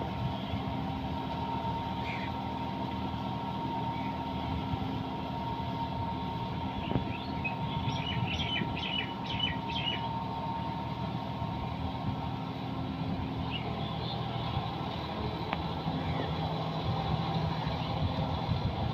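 John Deere 5210 tractor's diesel engine running at a steady speed, with a few short high chirps about halfway through.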